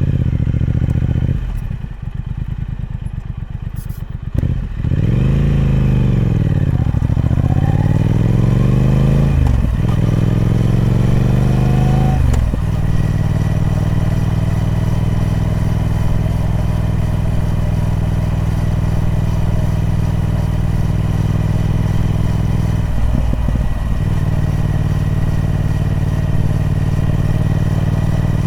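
Triumph Speed Twin 1200's 1200 cc parallel-twin engine through its stock exhaust. It starts with a few seconds of lower, pulsing running, then the engine speed sweeps down and back up, breaks about ten seconds in and climbs again. From there it holds a steady pitch, dipping briefly near the end.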